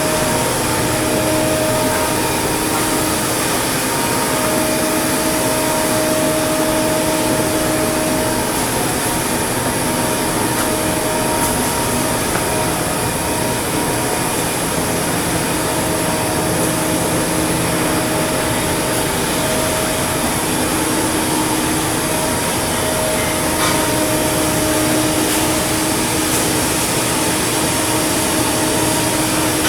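Steady machinery noise of shipbuilding work: a constant hiss with a wavering hum, like a motor or blower running without pause.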